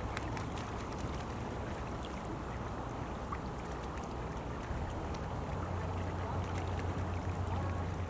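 Steady rush of running water with many small splashes and a low rumble underneath.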